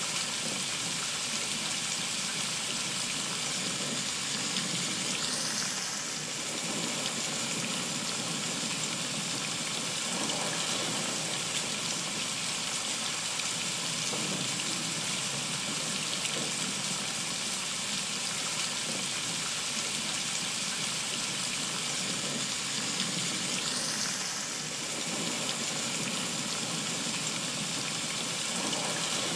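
Heavy rain falling steadily, a dense, even hiss of drops on foliage and wet surfaces.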